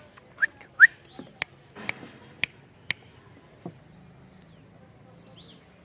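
Short, sharp clicks about twice a second, with two brief falling chirps near the start and a faint chirp later, likely small birds.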